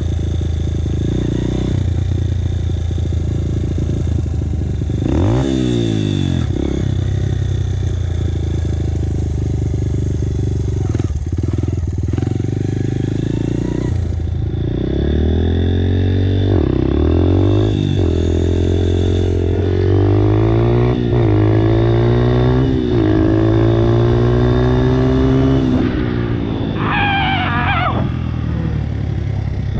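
Dirt bike engine under way, its pitch repeatedly climbing under throttle and dropping back as the rider accelerates and shifts gears. Several long rising pulls follow one another in the second half.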